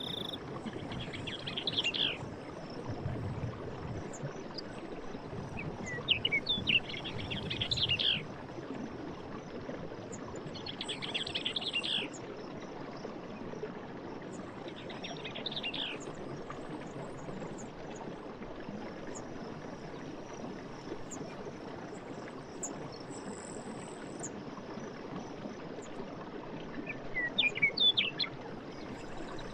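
Forest night ambience: a steady insect chorus with bursts of high chirping calls that come in clusters every few seconds, loudest about six to eight seconds in and again near the end.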